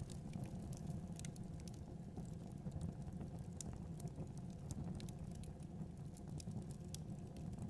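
Fire crackling in a fireplace: irregular sharp pops and ticks over a low, steady rumble of the flames.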